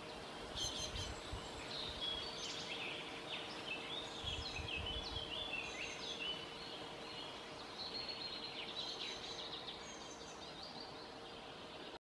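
Birds calling: a long run of short, sharp chirping notes, some sliding downward, that fades out near the end.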